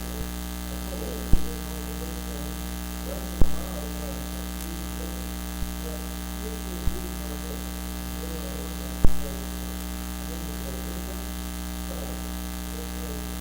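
Steady electrical mains hum and buzz on the audio feed, the fault behind the service's bad sound. Five or so sharp pops come through it, a few seconds apart, with a faint voice buried underneath.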